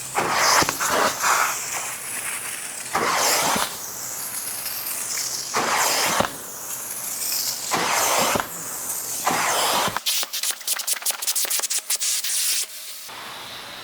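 Microfiber towel rubbed firmly over damp upholstery fabric in about five separate strokes, each a short hissing swish. Near the end comes a quick run of rapid clicks.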